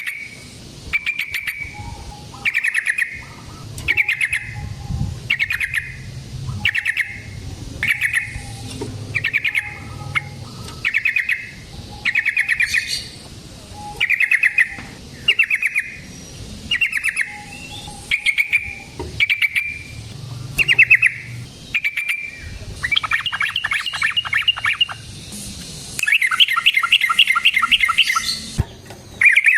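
Yellow-vented bulbul (trucukan) singing: short bubbly phrases repeated about once a second, then a longer, faster trilling run near the end.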